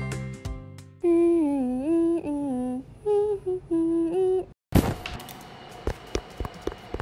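Music dies away, then a voice hums a short gliding tune for about three and a half seconds. After a sudden gap, a sharp knock and a run of small clicks and taps follow.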